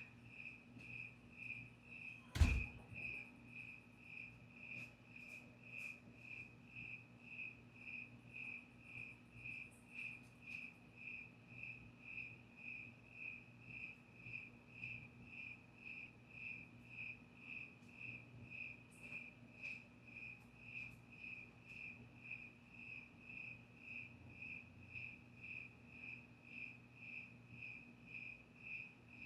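Cricket chirping in an even rhythm, about two chirps a second. One sharp knock about two and a half seconds in is the loudest sound.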